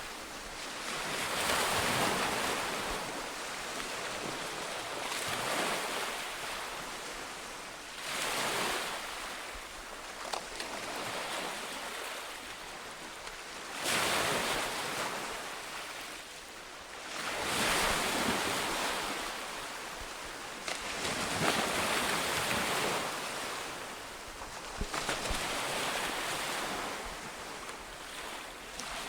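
Ocean waves breaking on a shore, the surf rising and falling in repeated surges every few seconds.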